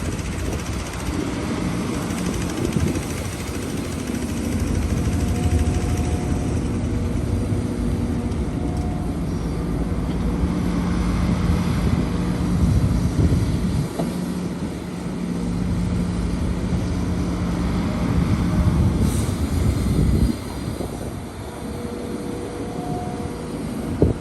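Heavy diesel earthmoving machinery running: excavator and dump truck engines working under load, the engine note shifting several times and easing off about twenty seconds in.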